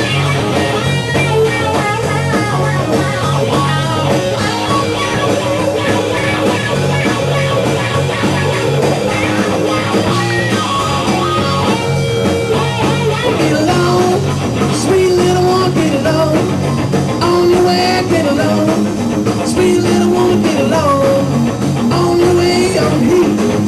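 Rock band playing an instrumental break: a guitar plays a lead line with bent, held notes over bass and drums.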